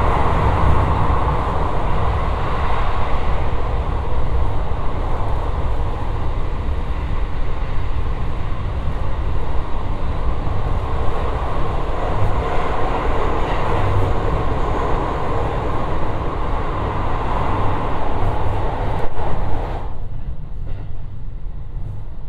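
JR West 223-series electric train heard from inside the car, running at speed through a tunnel. Its wheel and running noise is a loud, steady din echoing off the tunnel walls. About twenty seconds in, the sound drops away suddenly as the train leaves the tunnel.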